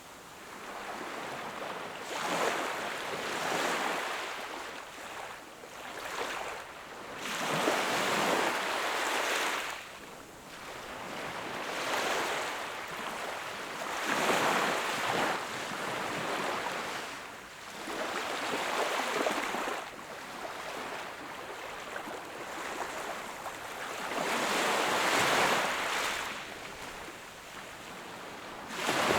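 Sea waves breaking and washing onto the shore, one after another, each rising and falling away over a few seconds.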